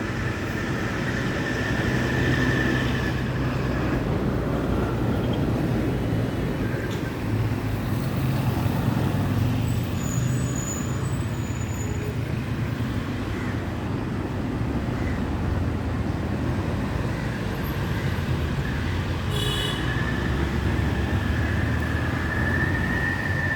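Steady road traffic rumble from passing vehicles. A drawn-out higher whine rises over it near the start and again near the end, with a few short high chirps about halfway.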